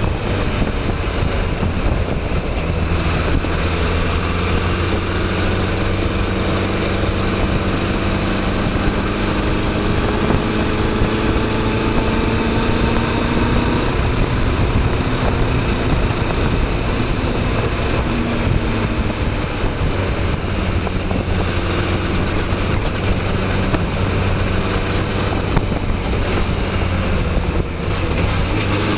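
Motorcycle engine running under way, its pitch holding steady for long stretches and shifting a few times with the throttle, under constant wind noise on the microphone.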